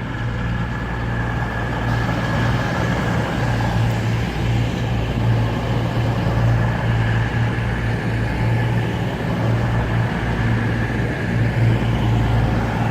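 Class 221 Voyager diesel multiple unit with its underfloor Cummins diesel engines running, a steady low drone.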